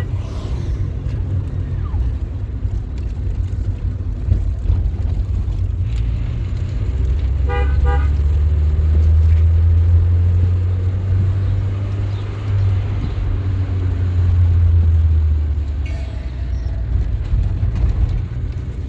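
Car engine and road rumble while driving, with a car horn tooted twice in quick succession about halfway through.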